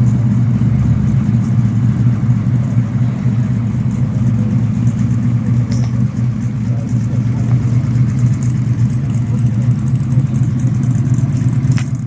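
A motor vehicle's engine running steadily at a constant low speed, with one sharp click near the end.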